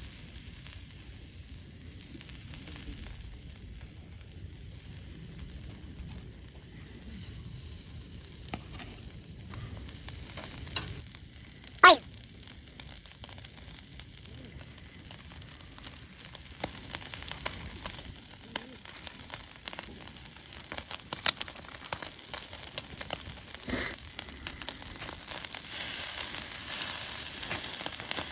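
Food frying in a pan: a steady sizzle with scattered crackles and pops that grow busier and louder in the second half. One sharp, louder sound falls in pitch about twelve seconds in.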